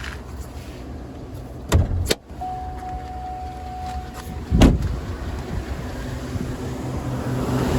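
2013 Chevrolet Avalanche's 5.3-litre V8 idling with a low steady rumble. Two sharp clicks come a little under two seconds in, then a steady electronic warning tone sounds for about two seconds, and a heavy thump, the loudest sound, follows a little past halfway.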